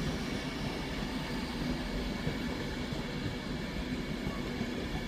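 Train running at a station platform: a steady rumble with a faint low hum.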